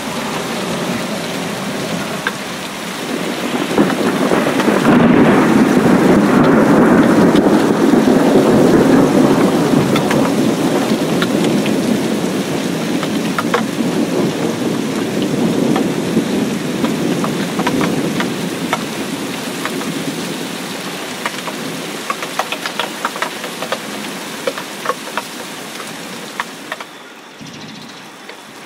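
Steady rain falling into shallow standing water on grass, with many small drop ticks. About four seconds in, a low rumble of thunder swells, holds for several seconds and slowly fades away.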